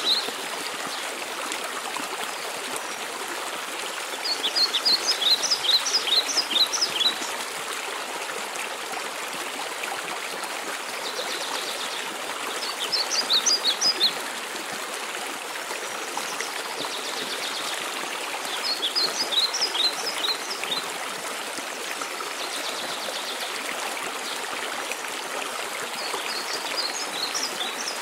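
Waterfall water running in a steady rush, with a songbird singing a short phrase of quick, high notes four times, about every six seconds. A fainter buzzy trill sounds in the gaps between the phrases.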